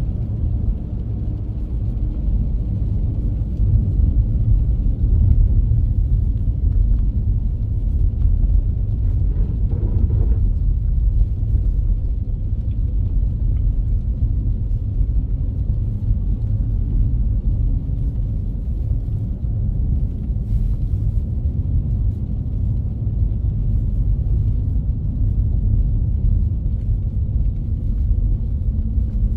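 Steady low rumble with no letup, its weight deep in the bass.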